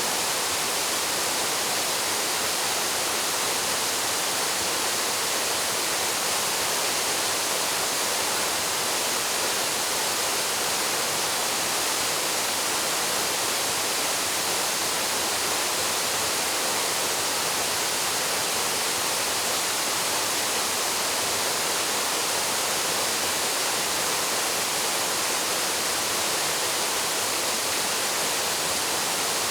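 Waterfall plunging into a pool: a steady, unbroken rush of falling water, strongest in the hiss range.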